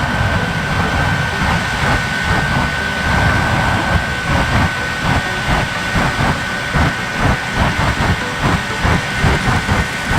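Jet engine running loudly with a steady high-pitched whine over a rushing roar. From about four seconds in, a regular thudding joins it, about three beats a second.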